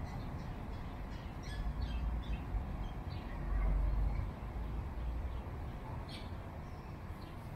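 Small birds chirping in short, scattered calls over a steady low rumble that swells for about a second midway.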